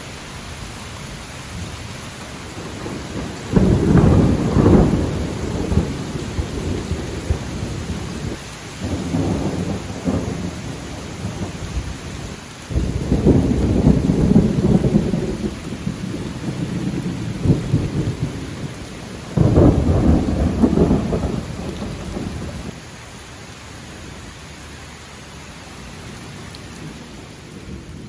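Wind buffeting the microphone during a ride on a 2020 Honda Super Cub, a steady rush broken by four loud gusts of low rumble, quieter near the end.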